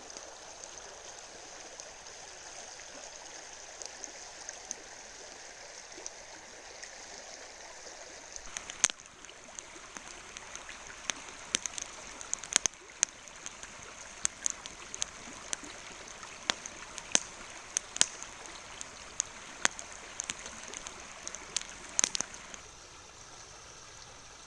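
River water flowing steadily. From about nine seconds in until near the end, scattered sharp pops sound over it.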